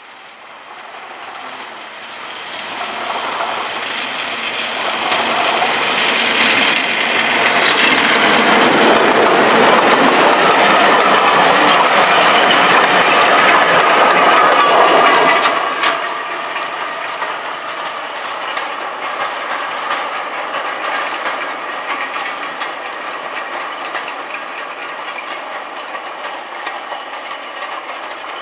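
Class 37 diesel locomotive D6732 with its English Electric V12 engine working, growing louder as it approaches and passes close by about fifteen seconds in. After that the train's carriages roll past with their wheels running on the rails, steadier and quieter, until the sound cuts off near the end.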